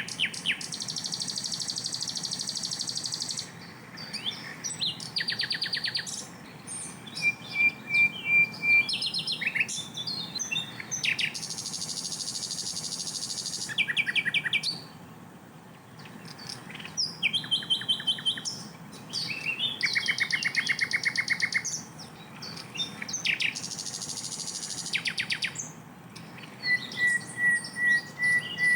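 Sikatan londo flycatcher singing a dense, loud song. It alternates high buzzy phrases a few seconds long with fast rattling trills and short sharp notes, with brief pauses about four and fifteen seconds in.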